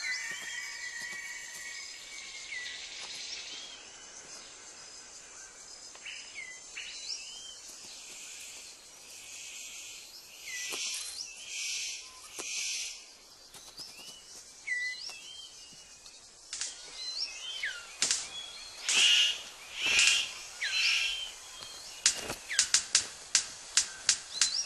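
A bird calling with a varied mix of short gliding whistles and harsh rasping notes. Near the end it breaks into a fast run of sharp clicks, about four a second.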